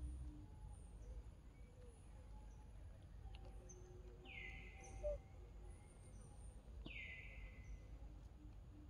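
Faint outdoor ambience with birds calling: three times, a call drops quickly in pitch and trails off, about two and a half seconds apart, over scattered short high chirps.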